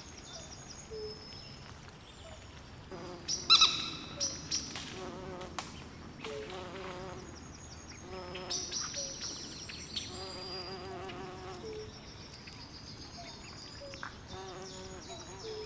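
Night swamp chorus of frogs and insects: repeated low pulsed frog trills over high insect chirps, with one louder, sharp call about three and a half seconds in.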